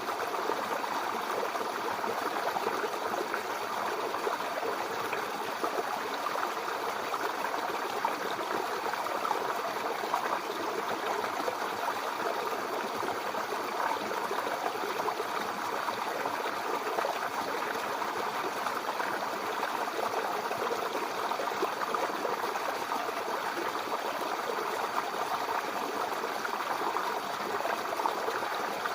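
Mountain river flowing: a steady rush of water over rocks.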